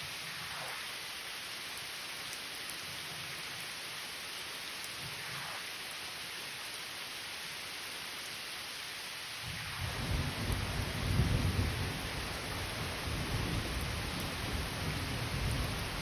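Steady rain falling, then a low rumble of thunder that builds about two-thirds of the way in, is loudest a second or two later and keeps rolling to the end.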